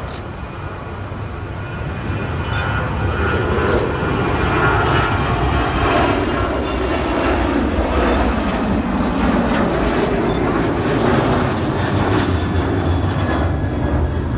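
Jet engines of a cargo airliner at takeoff power: a heavy rumble and hiss that swells over the first few seconds, then holds loud and steady, with a few faint clicks.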